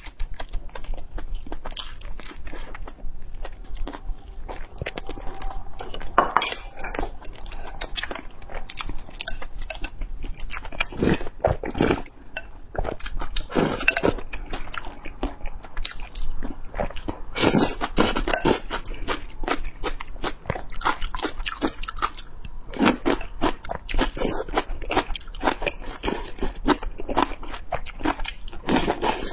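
Close-miked eating sounds: crunchy bites and chewing of crisp fried food, with pieces eaten from a bowl of broth. The crunches come in irregular clusters, some much louder than others.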